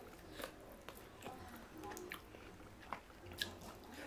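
Faint chewing and biting of food, with a few scattered small clicks.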